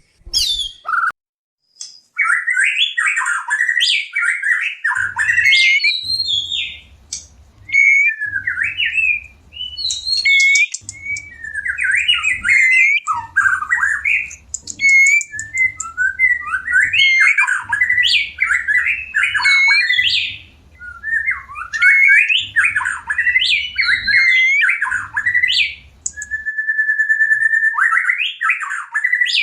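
White-rumped shama singing a long run of rapid, varied whistled phrases with sweeping glides and squawky notes. This is the breeding-condition song used as a lure to bring captive shamas into mating readiness. Near the end comes one held, steady whistle.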